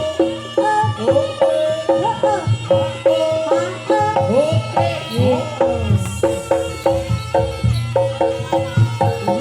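Javanese jaranan ensemble playing live: hand drums with bending-pitch strokes over a fast, steady repeating pattern of struck tuned metal percussion.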